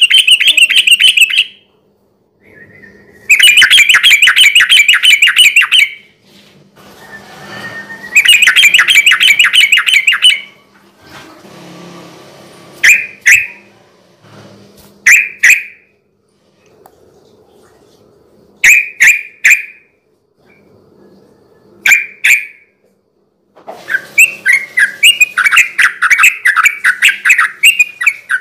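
Sooty-headed bulbul (trucukan) singing. First come three loud bursts of rapid chattering trills, each a couple of seconds long. Then a few short, separate two- or three-note calls, and near the end a long, fast run of repeated phrases.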